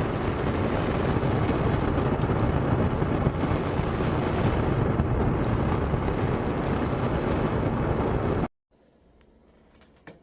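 Loud, steady rushing noise with a heavy rumble, storm-like, that cuts off abruptly about eight and a half seconds in, leaving near silence with a few faint clicks.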